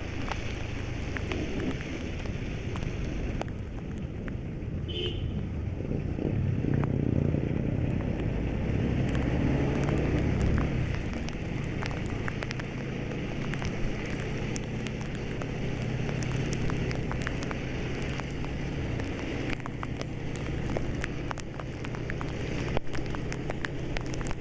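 Steady rain with a vehicle engine running underneath and scattered drops clicking sharply. The engine gets louder from about six to eleven seconds in, then settles back.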